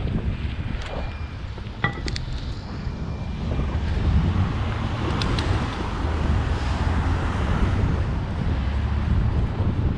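Wind buffeting the microphone of a camera on a moving bicycle, a steady low rumble, with a few sharp clicks and rattles about two seconds in and again about five seconds in.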